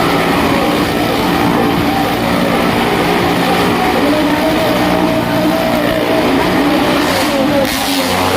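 A car and two motorcycles circling the wall of a well-of-death drum, their engines running loud and steady, several engine notes at once with the pitch shifting slightly as they go round.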